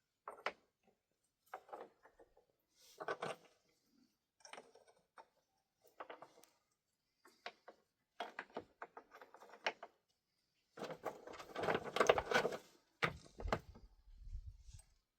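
Irregular knocks and scrapes of objects being handled, with a longer, denser stretch of scraping and clattering about eleven seconds in, followed by a low rumble.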